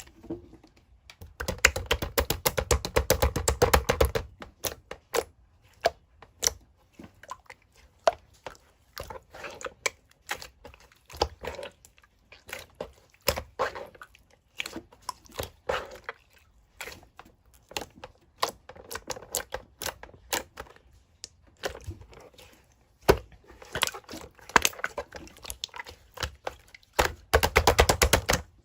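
Slime being squeezed and poked by hand, giving crackling clicks and pops: dense rapid runs near the start and near the end, scattered single pops in between.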